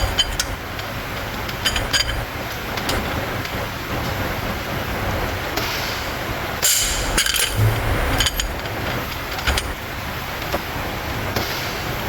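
Metal hand tools clinking and knocking against engine parts, scattered sharp clicks with a busier run of clinks around the middle, over a steady low workshop hum.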